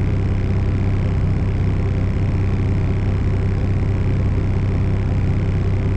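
Diesel engine of a tri-axle rollback truck running steadily, heard from inside the cab as an even low drone.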